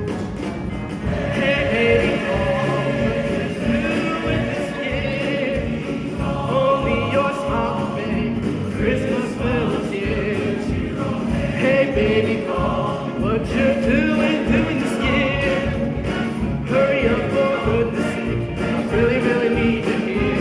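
School choir singing a Christmas song with instrumental accompaniment.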